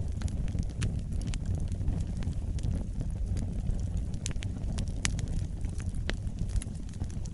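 Wood fire burning in a fireplace: irregular sharp crackles and pops over a low, steady rumble of the flames, with a few louder pops past the middle.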